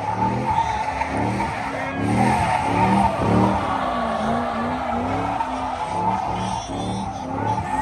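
Car tires squealing under wheelspin, over an engine revving up and down.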